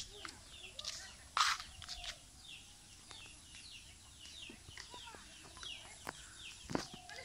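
Birds chirping: a run of short, falling high chirps, several a second, with a few sharp knocks, the loudest about a second and a half in.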